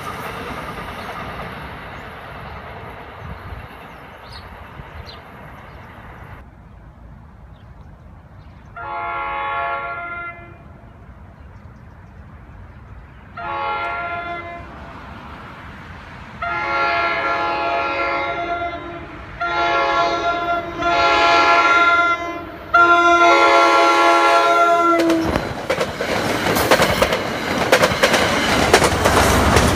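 A departing commuter train's rumble fades away. Then a multi-chime train air horn, a Nathan K5LA, sounds a series of blasts as a train approaches, the later ones longer and louder. The horn stops as the train passes close by with a loud rush and rumble of wheels on rail.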